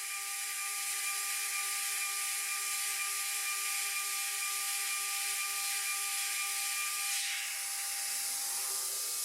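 CNC router spindle at 24,000 RPM running a 6 mm three-flute flat end mill through an adaptive clearing pass in aluminium: a steady high whine over a hiss. The whine shifts about seven seconds in.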